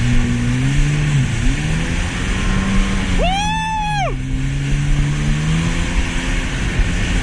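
Jet ski engine running under throttle, its hum rising and falling in pitch as the rider works the gas, over a steady rush of water and wind. About three seconds in, a high-pitched arching tone sounds for about a second.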